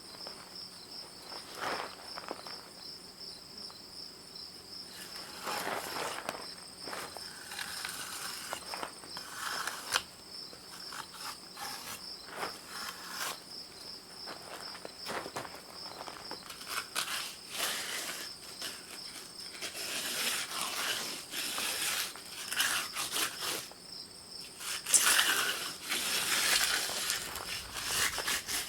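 Steady pulsing insect chirring, with irregular scraping strokes over it that come more often in the second half.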